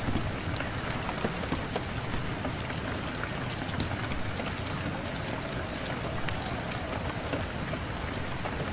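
Fireplace wood fire crackling, with many small irregular pops and snaps over a steady rush of wind.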